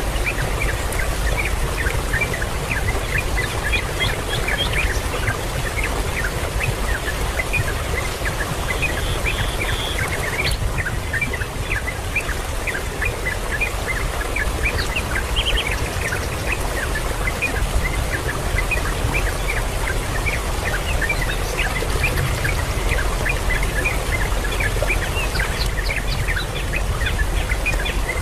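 Many small birds chirping rapidly and without a break, short high calls overlapping several times a second, over a steady low rumble.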